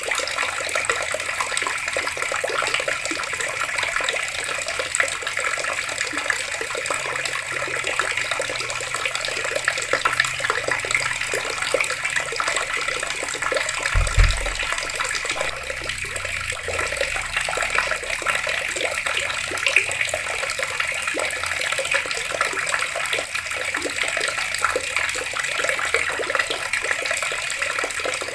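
Water running steadily from taps and splashing, a continuous even rush. A brief low thump about halfway through.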